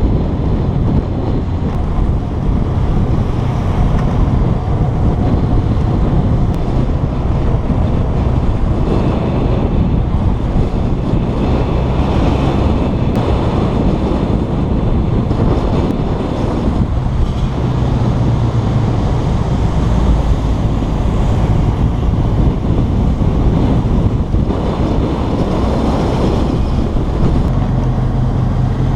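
Wind buffeting a motorcycle rider's microphone at speed, a steady rushing with the motorcycle engine's low drone underneath.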